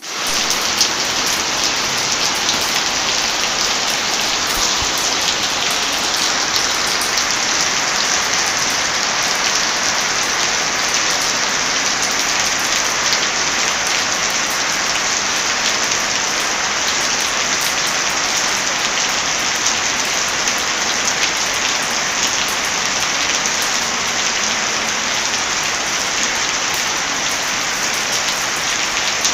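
Heavy rain falling steadily, a dense even hiss with many scattered sharp clicks through it. The sound drops out for an instant at the very start, then comes straight back.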